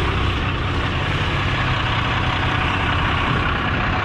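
Cummins turbo-diesel pickup engine running steadily, a low, even drone with no change in speed.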